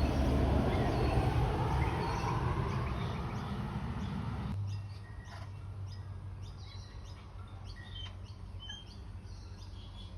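Short, high bird chirps repeated throughout. Wind buffets the microphone for the first four seconds or so, then drops away.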